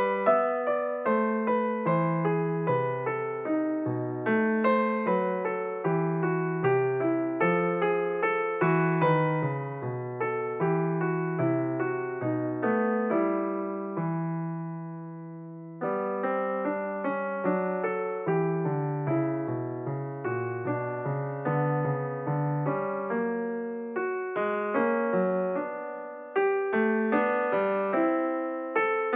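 Background piano music: a gentle melody of plucked-and-decaying notes over a moving bass line, with a held chord fading out about two-thirds of the way through before the playing resumes.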